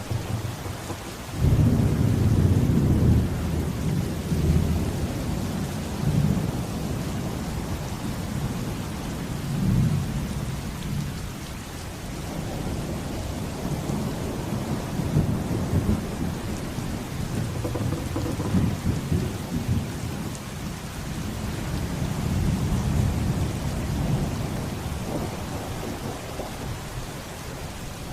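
Heavy rain falling steadily with rolling thunder. A loud deep rumble of thunder breaks in about a second and a half in, and further rumbles swell and fade through the rest.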